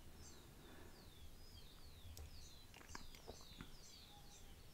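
Faint, repeated bird chirps, each a quick downward slur, two or three a second, with a few soft clicks among them.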